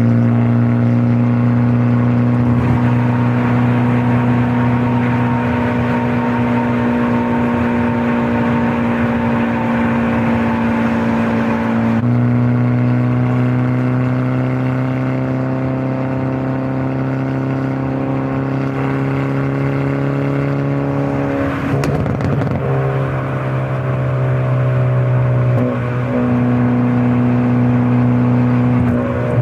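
Hyundai Elantra N's turbocharged four-cylinder engine and exhaust running steadily under way. The pitch drifts slowly, steps up about 12 seconds in, and breaks briefly and roughly about two-thirds of the way through.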